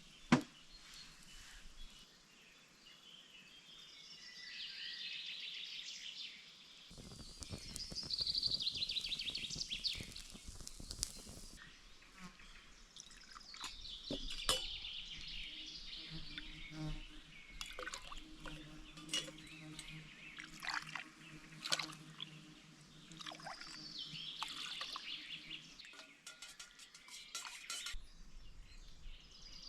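Forest ambience in short edited stretches: birds singing, with scattered clicks and knocks, and a steady low hum for about ten seconds in the second half.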